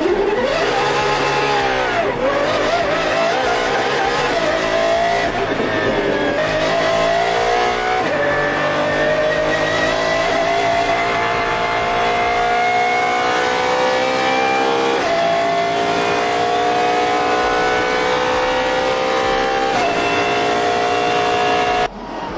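De Tomaso P72's supercharged V8 engine revving once, then pulling hard in a long climb in pitch. The pitch drops suddenly three times as it upshifts through the gears.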